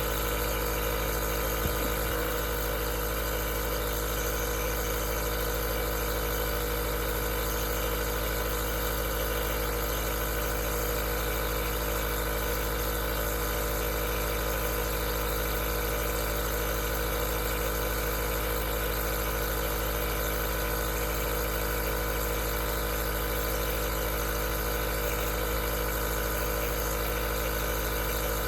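Aerosol nebulizer's compressor running with a steady, unchanging hum and hiss.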